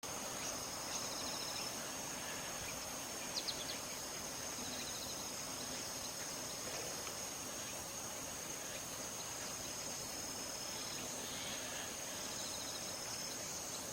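Outdoor insect chorus: a steady high-pitched drone with short pulsed chirping trills repeating every few seconds, over a soft even hiss of wind. A few brief chirps stand out about three seconds in.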